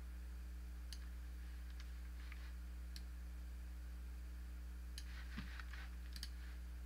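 Computer mouse clicking, six or so scattered single clicks with a short cluster a little past the middle, over a steady low electrical hum.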